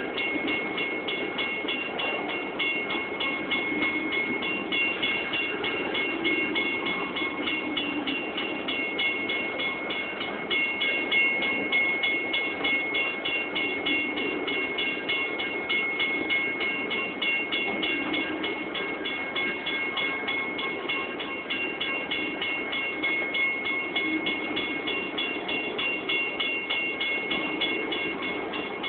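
A train rolling through a road grade crossing, a steady low rumble of the passing cars. Over it the crossing warning bell rings without a break, a rapid high-pitched ding about three to four times a second.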